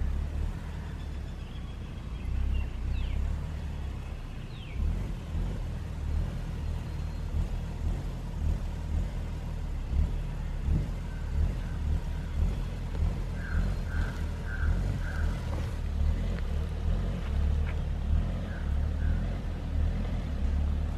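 Hyundai i20 hatchback reversing slowly over rough dirt, its engine giving a low, uneven rumble throughout.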